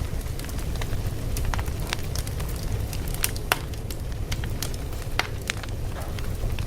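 Wood fire crackling steadily: a low rumble of flames with irregular sharp pops and snaps, one louder pop about three and a half seconds in.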